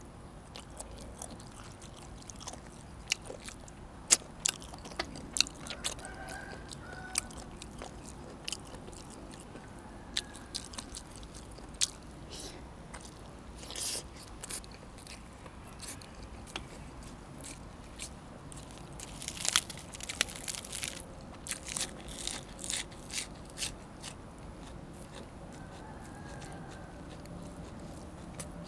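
A person biting and chewing crunchy food close to the microphone: irregular sharp crunches through the whole stretch, with a denser, louder run of crunching about two-thirds of the way through.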